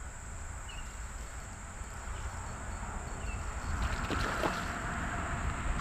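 Water splashing and sloshing, swelling about four seconds in, over a low wind rumble on the microphone and a steady high drone of crickets.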